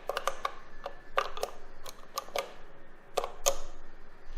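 A series of irregular sharp clicks and taps, about fifteen over four seconds, with a few louder ones.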